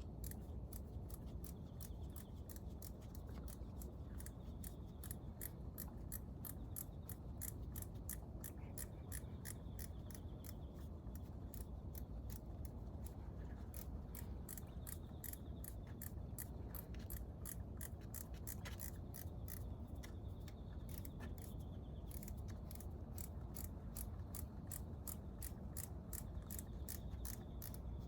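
Ratchet wrench clicking steadily, about three clicks a second, with a brief pause around the middle, during engine teardown.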